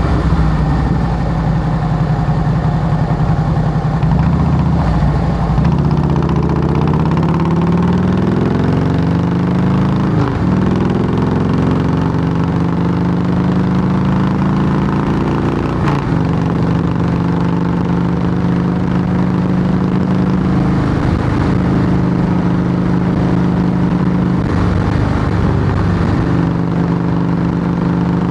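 2008 Harley-Davidson Heritage Softail Classic V-twin running through Samson fishtail true-dual pipes. The engine note climbs in pitch from about six seconds in, drops abruptly near ten seconds as at a gear change, then holds a steady, even note.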